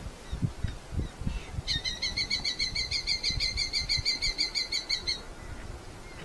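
Red-footed falcon giving a fast series of repeated shrill calls, about six a second for some three and a half seconds, starting near two seconds in. Low thumps and rustling run underneath.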